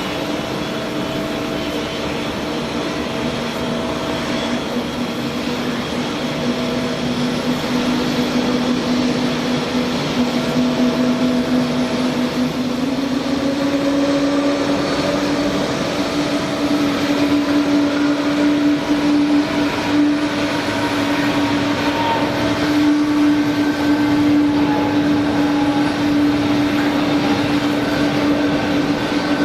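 Aircraft pushback by a tow tractor: a steady whine over continuous machinery noise, the whine rising slightly in pitch about 13 seconds in and the whole growing a little louder.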